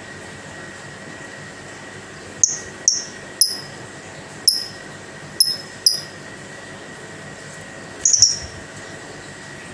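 Female lovebird giving short, sharp, high chirps that drop in pitch: six single chirps spaced about half a second to a second apart, then a quick double chirp near the end, over a steady hiss.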